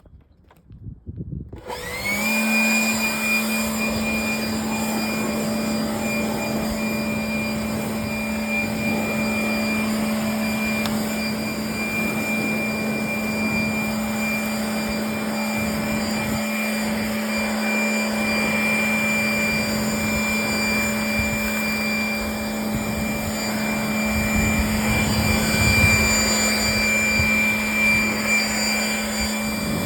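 Electric blower motor, as in a vacuum or leaf blower, switching on with a short rising whine about two seconds in and then running steadily at one pitch. There is a rougher rushing stretch near the end.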